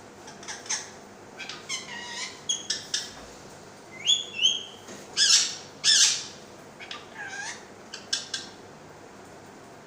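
Parrot squawking and giving short whistled calls in a quick string, the two loudest squawks just after the middle.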